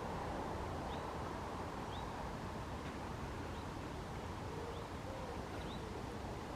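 Faint short high chirps from a small bird, repeating about once a second over steady outdoor background noise.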